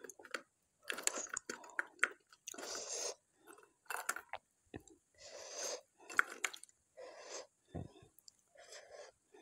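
Close-miked wet chewing and mouth sounds from eating rice and bharta with the hand, in short irregular bursts about once or twice a second, with a low bump near the end.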